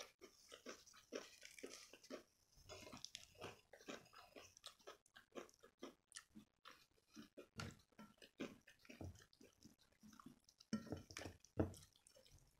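Close-up eating sounds: irregular wet chewing and mouth smacks as a piece of lachha paratha dipped in palak paneer is eaten by hand, with a few louder smacks near the end.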